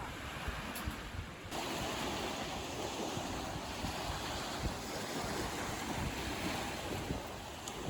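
Waves washing onto a sandy beach, with wind buffeting the microphone. The surf gets louder and fuller about a second and a half in.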